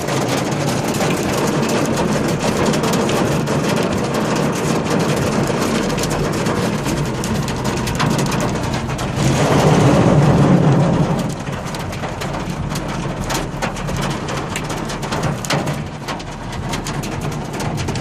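Hail pelting down: a dense, continuous patter of many sharp impacts over a steady rushing hiss. A louder low rumble swells about nine seconds in and fades by about eleven seconds.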